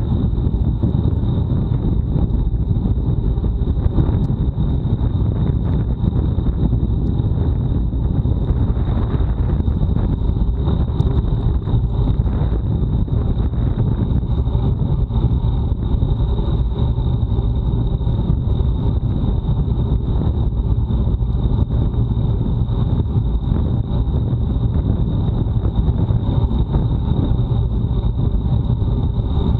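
Steady rush of wind buffeting a bike-mounted action camera's microphone while riding at speed, with the low rumble of tyres on the road. A thin, steady high whine runs through it.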